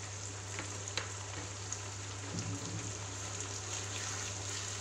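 Chicken pieces, onions and freshly added ginger-garlic paste sizzling steadily as they fry in a nonstick pan, stirred with a wooden spatula that gives a few light taps in the first second or so. A steady low hum runs underneath.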